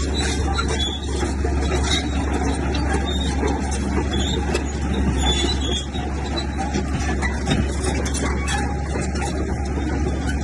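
Heavy diesel earthmoving machinery running steadily under load, a deep constant drone with short high squeals scattered through it.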